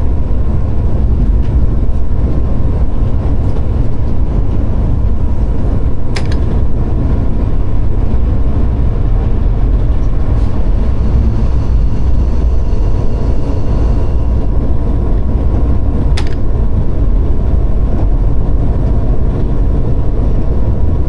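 Steady, loud low rumble of a diesel locomotive running, heard from inside its cab. Two sharp clicks come about ten seconds apart.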